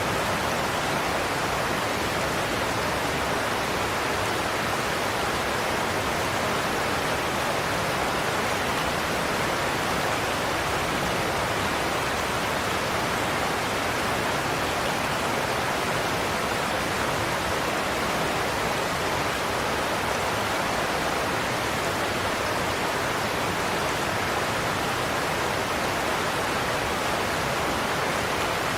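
Godafoss waterfall's cascades rushing: a steady, unbroken roar of falling water.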